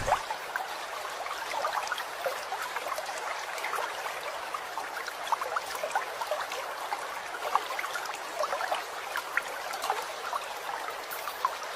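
Water trickling and babbling, a steady hiss dotted with many small, irregular bubbling plops.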